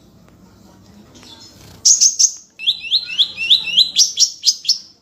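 A songbird singing: a burst of loud high notes about two seconds in, then a quick run of repeated sharp chirps, about four a second.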